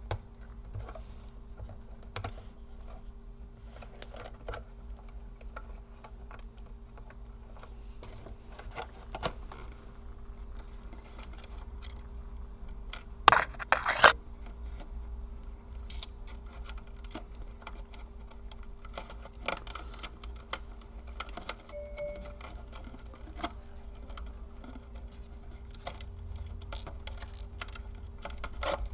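Small scattered clicks and taps of laptop cables and plastic parts being handled and pressed into place by hand while the cables are routed back inside the open laptop, with a louder pair of clicks about halfway through.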